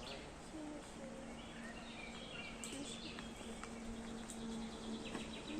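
Small birds chirping over outdoor background noise, with a steady low hum through most of it.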